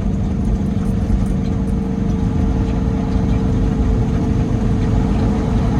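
Steady engine drone and road rumble inside the cab of a Peterbilt 389 semi-truck on the move, with a constant hum over the low rumble.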